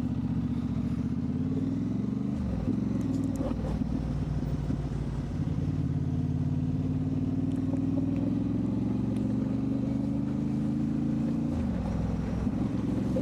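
Motorcycle engine running under way. Its note drops sharply about two and a half seconds in, climbs slowly for several seconds, then drops again near the end, as with gear changes or easing off and opening the throttle.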